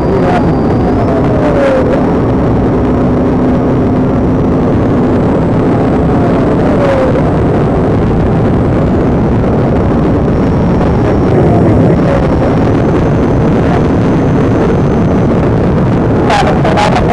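Loud, steady vehicle noise with a faint constant hum, crossed now and then by faint falling tones.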